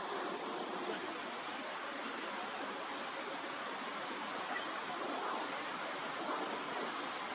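Steady rushing noise like flowing water, even and unbroken throughout.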